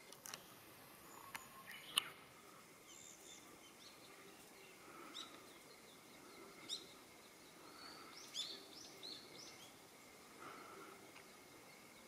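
Faint bird chirps, short rising notes coming several times in the second half, over a quiet outdoor background. A few sharp clicks in the first two seconds, the loudest about two seconds in.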